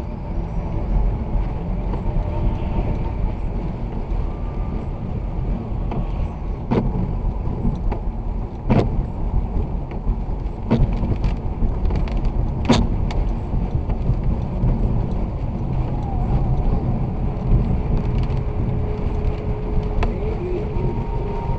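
Car driving with a steady low rumble of road and engine noise, and four sharp clicks about two seconds apart in the middle.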